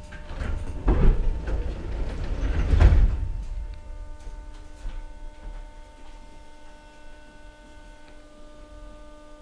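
Metro train standing at a station with its sliding doors working: heavy thumps about one and three seconds in over a low rumble. After that, a quieter steady electrical hum with several thin whining tones.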